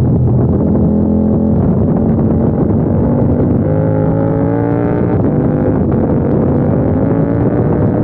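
KTM 890 Duke R's parallel-twin engine running hard at track speed. Its pitch holds level at first, then climbs steadily through the second half as the bike accelerates through a corner.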